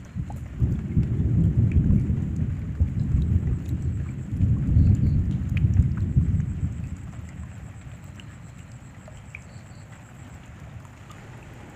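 A long roll of thunder over steady rain. The rumble builds about half a second in, swells twice, then fades away over the last few seconds, while the rain carries on with scattered drips.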